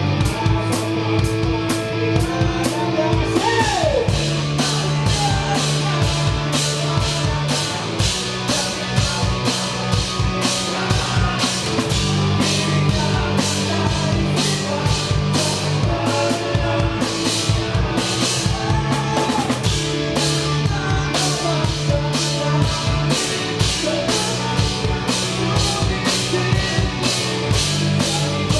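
Live rock band playing, with a drum kit keeping a steady driving beat over sustained bass and guitar.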